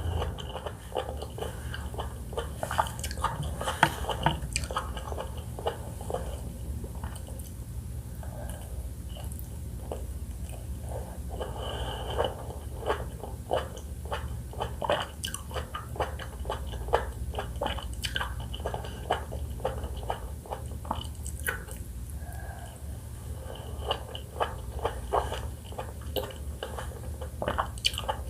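Close-miked chewing and biting of pomelo fruit segments: a dense run of short, irregular clicks and smacks, over a steady low hum.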